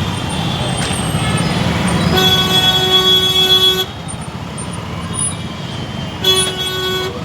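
Steady engine and road rumble of a motorbike riding in city traffic. A vehicle horn sounds twice: a long honk about two seconds in, and a shorter one near the end.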